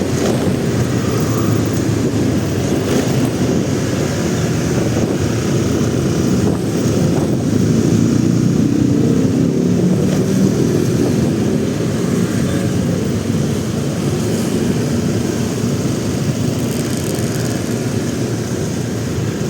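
Motorcycle riding in traffic: steady wind rumble on the camera microphone over the engine and road noise, a little louder about halfway through.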